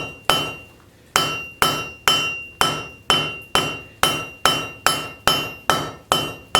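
Hand hammer striking a hot railroad spike on an anvil, about two blows a second after a short pause near the start, each blow with a brief metallic ring: the smith spreading the iron out.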